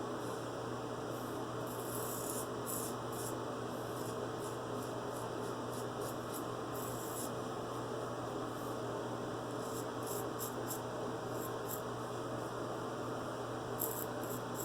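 Razor blade scraping through lathered stubble in quick short strokes, coming in several bunches, over a steady electrical hum.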